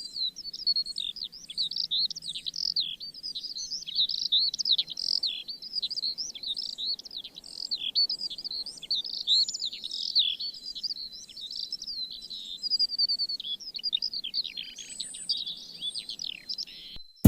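Songbirds singing together in a dense chorus of quick, overlapping chirps and trills that cuts off abruptly at the very end.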